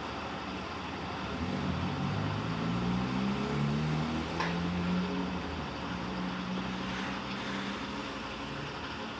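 Electrolux LTC15 washing machine running, its motor hum shifting up and down in pitch over a steady mechanical whirr, with one brief click about four seconds in.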